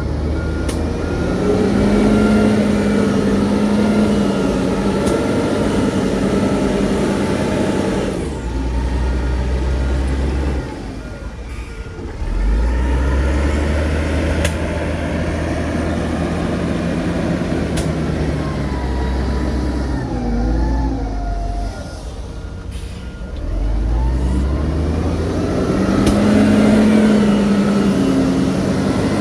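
Heavy diesel engines of a bulldozer and dump trucks working, their pitch rising and falling as they rev and ease off. A reversing beeper sounds in short spells near the start, about midway and again later.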